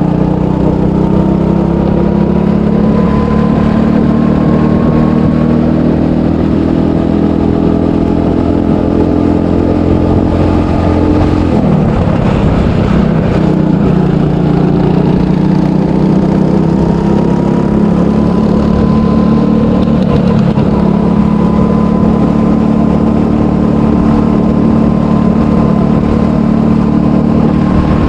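300cc go-kart engine running hard. Its pitch climbs slowly, drops sharply about twelve seconds in, then climbs again and holds high.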